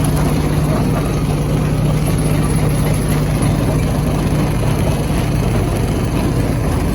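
Stone crusher running steadily, a constant low mechanical hum with a rough haze of noise over it.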